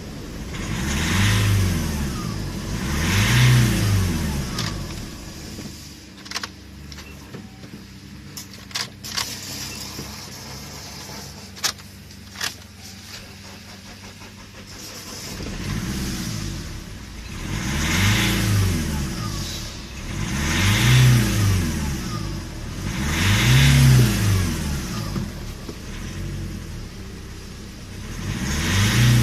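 Nissan Primera's 2.2 dCi YD22DDT four-cylinder turbodiesel being revved in short blips, each rising and falling back. There are two blips near the start and five more from about halfway on, with the engine idling in between and a few sharp clicks during the idle.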